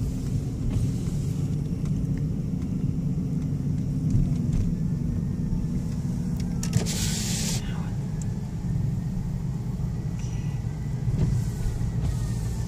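Car engine and tyre noise heard from inside the cabin while driving over a sand-covered road: a steady low hum, with a brief hiss about seven seconds in.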